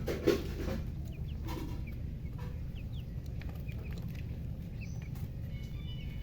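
Chickens: a louder, lower burst just after the start, then short high chirps scattered through the rest, over a steady low hum.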